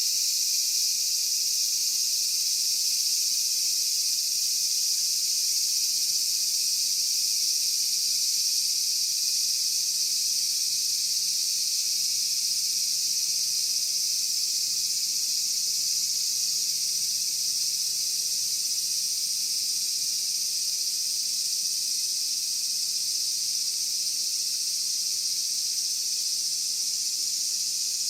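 Steady, unbroken chorus of insects: a dense high-pitched buzz with no pauses, and a few fainter thin tones below it.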